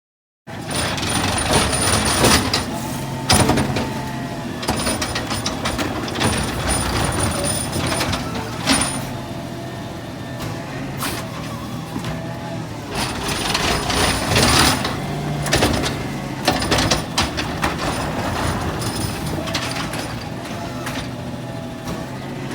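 McNeilus ZR rear-loader garbage truck running, its diesel engine humming steadily under repeated short hisses and clanks of the air brakes and the loading gear.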